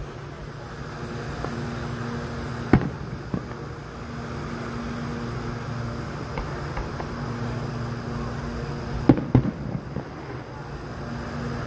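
Distant fireworks going off in sharp bangs: one about three seconds in, a smaller one just after, then two louder bangs close together near the end. The bangs sound over a steady low hum.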